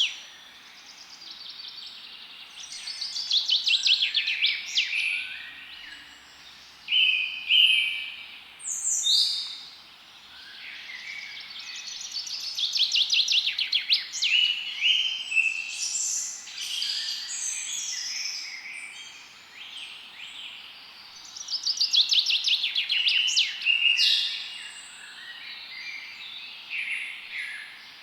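Several forest songbirds singing and calling, with overlapping phrases, and a rapid trill of quick repeated notes that comes back every eight to ten seconds, over a steady faint hiss.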